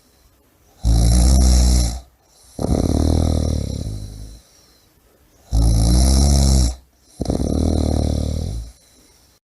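A person snoring heavily through two full breaths about five seconds apart. Each breath is a loud, rattling snore followed by a longer rattling breath that fades away, with short pauses between.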